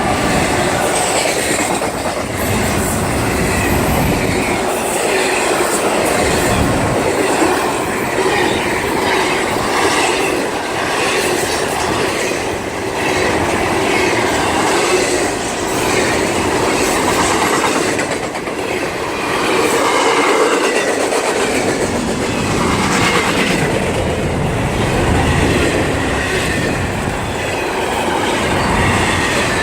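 Long CSX freight train rolling steadily past close by, its car wheels clacking over the rail joints.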